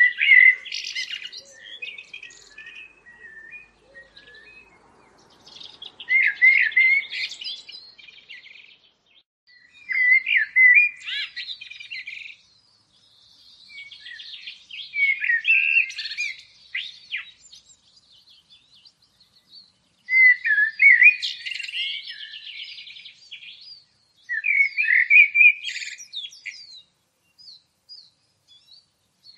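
A songbird singing high-pitched phrases of chirps and trills, each lasting two to three seconds, repeated every few seconds with short pauses between.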